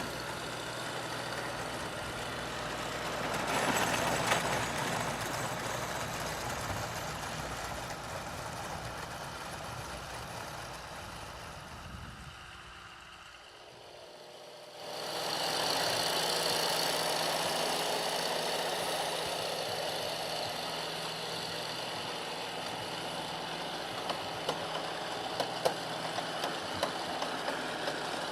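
1961 International 434 tractor's diesel engine running with a knocking diesel note. The sound fades to its quietest about 13 seconds in, then comes back up sharply a couple of seconds later and holds steady.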